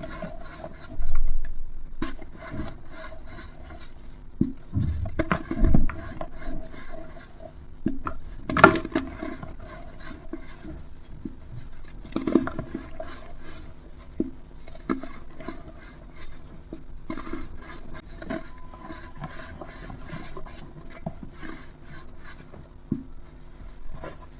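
A dry, brittle material being crumbled and crushed by hand: dense, irregular crackling and scraping, with a few louder crunches, one about a second in, a couple around five to six seconds and the loudest about eight and a half seconds in.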